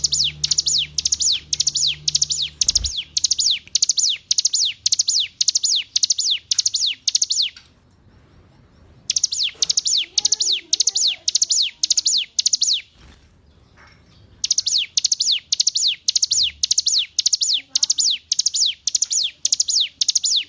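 Ciblek gunung (a mountain prinia) singing: a fast series of sharp, falling high notes, about three a second, in three long runs broken by two short pauses.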